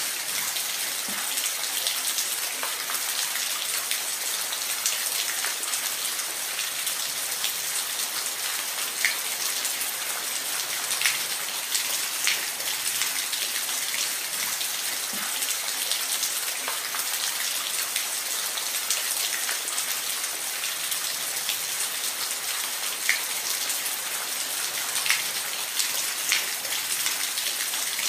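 Steady rain falling, an even hiss with individual drops ticking sharply here and there on a hard surface.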